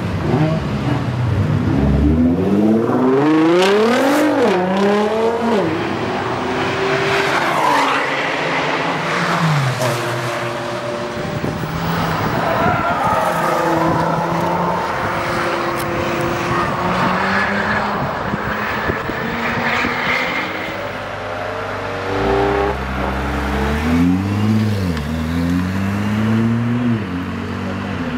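Nissan GT-R's twin-turbo V6 accelerating hard, its pitch rising and dropping back at each gear change, in two runs: one from the start and another from about 22 seconds in, with steadier engine running between.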